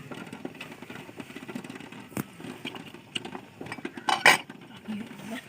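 Cooking utensils and pots clinking and knocking, with scattered light clicks, a sharp knock about two seconds in and a louder double clatter about four seconds in.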